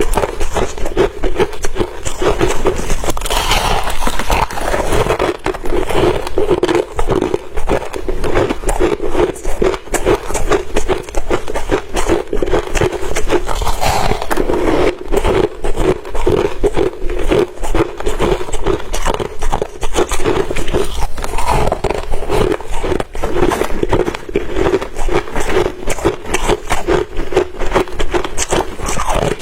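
Crushed ice being bitten and chewed: a dense, continuous crunching and crackling made of many rapid sharp cracks.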